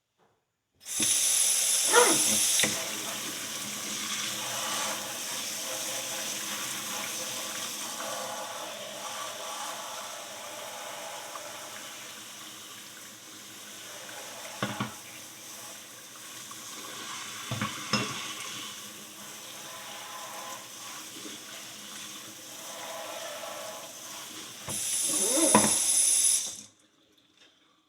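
Water running from a tap as a horseshoe is rinsed off after soaking. It runs harder for a couple of seconds at the start and again near the end, then cuts off. A few short knocks come in the middle.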